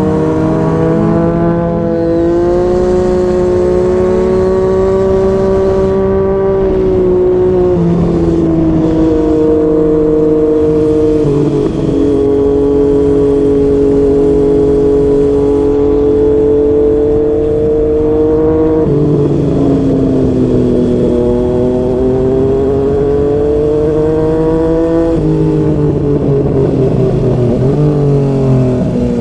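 Yamaha MT-09's inline-three engine, breathing through a Yoshimura R55 slip-on exhaust, heard from on the bike under way. The engine note climbs steadily through each gear and drops abruptly at several upshifts, then climbs again.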